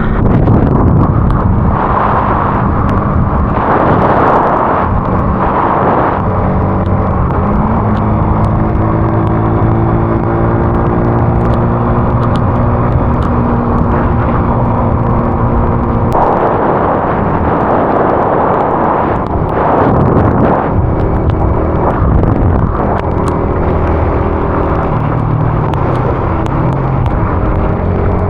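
A vehicle engine running at a steady cruising speed under a constant rush of road and wind noise, its pitch stepping a few times. The rushing noise swells twice, early on for a few seconds and again around the middle.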